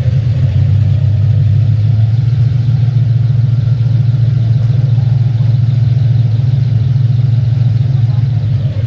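Loud, steady low engine drone with little change in pitch.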